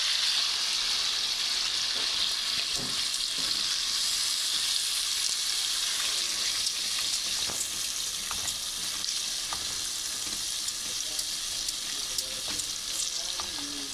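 Ground masala paste and tomato sizzling in hot oil in a non-stick kadai while being stirred with a wooden spatula, with light scrapes and taps of the spatula on the pan. The sizzle eases slowly as the masala fries down.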